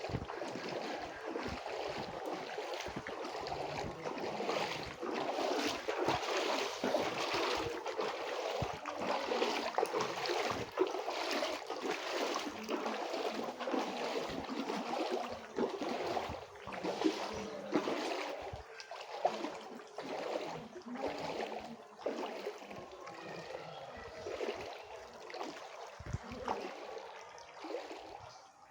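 Rain falling: a dense patter of drops with splashing water, a little lighter in the last few seconds.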